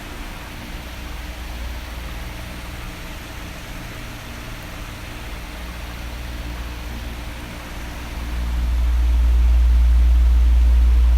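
Oscillating electric fan running: a steady rush of air over a low motor hum. The sound swells louder about eight seconds in and stays up to the end.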